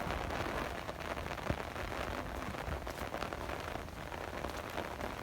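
Steady monsoon rain falling, a dense patter of drops with one sharper tap about a second and a half in.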